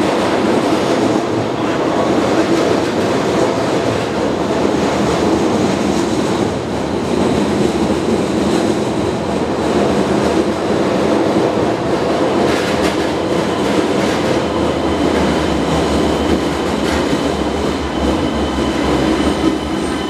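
Keisei Skyliner electric airport express arriving at an underground platform: a loud, steady rumble of wheels and running gear as the carriages pass close by, echoing off the station walls. Near the end a high squeal of several tones rises over the rumble as the train slows.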